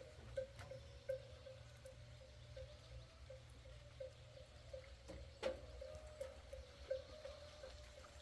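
A small metal bell ringing over and over at one pitch, a ding roughly every half second at uneven spacing and ringing on between strikes, with a sharp tap about five and a half seconds in.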